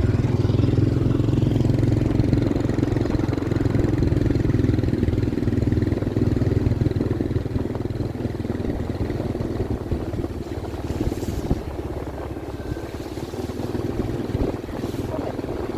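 Train running with a steady low engine rumble that eases off somewhat over the second half.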